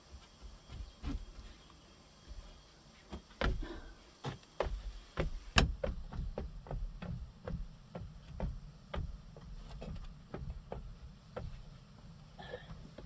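A run of irregular knocks and taps of wood being worked by hand, about one or two a second, the loudest about five and a half seconds in.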